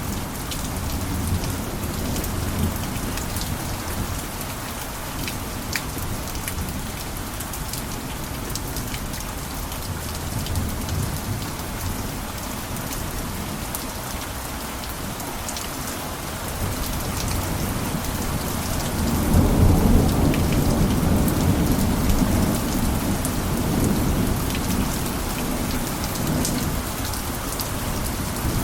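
Steady rain on a roof, with scattered individual drops ticking. About two-thirds of the way in, a low roll of thunder builds, peaks and slowly fades.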